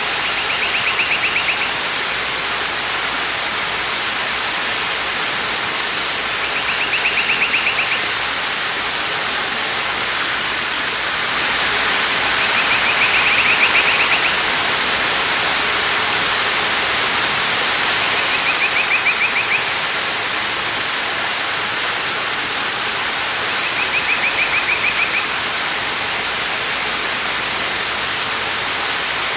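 Waterfall pouring in a steady rush of water. A short, rapid, buzzy trill at one high pitch repeats about every five to six seconds, five times, over the water. The rush swells a little in the middle.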